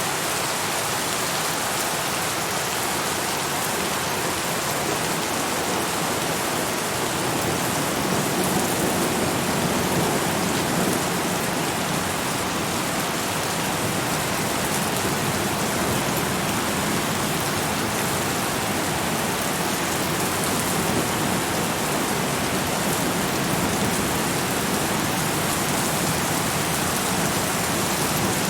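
Steady, heavy rainfall: a dense, even hiss of rain falling on surfaces, without let-up.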